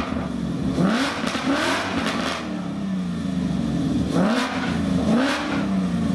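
Clive Sutton CS850 GT, a tuned Ford Mustang with a V8 engine, idling and revved in short throttle blips, about four times, each rev rising and falling quickly before dropping back to idle.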